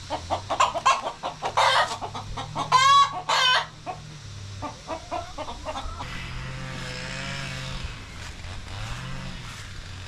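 Chickens clucking in quick short calls, with one loud, drawn-out call about three seconds in and a softer wavering call later, over a low steady hum.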